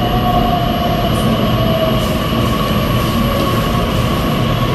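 Electric regional train pulling into a station platform, a steady whine over the rumble of its wheels and motors.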